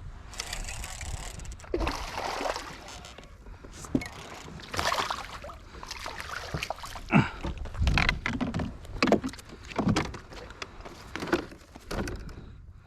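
Irregular knocks, rubbing and splashy handling noises from a small boat as a hooked fish is reeled in and landed, loudest in a cluster of knocks about two thirds of the way through.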